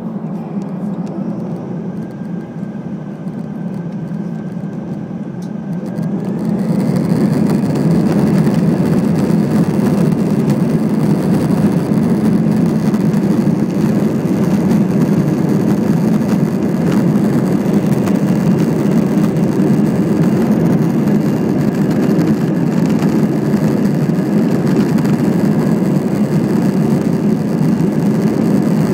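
Airbus A320 jet engines heard from inside the cabin, spooling up to takeoff thrust. A whine rises about six seconds in as the level climbs, then holds as a loud, steady rumble of the takeoff roll.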